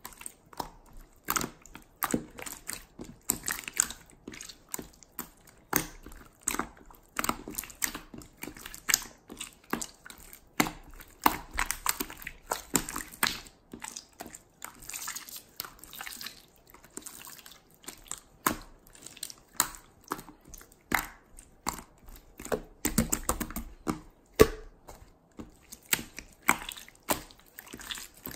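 Hands squishing and poking slime, making irregular sticky clicks and pops, a few each second.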